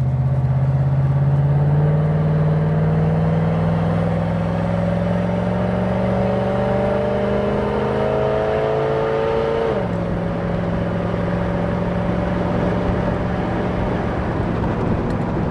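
The 1977 Jeep CJ-7's 360 V8 running under load, its pitch rising slowly for several seconds with a higher whine climbing alongside, then dropping suddenly about ten seconds in and holding steady after.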